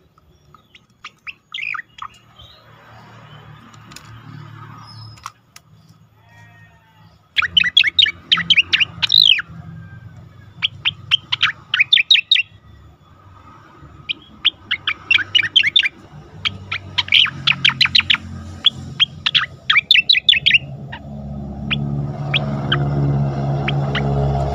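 Cucak koreng song: sharp whistled notes in fast rolling runs, coming in separate phrases of a second or two, loud from about a third of the way in after a few faint notes. A low droning tone comes up under the song near the end.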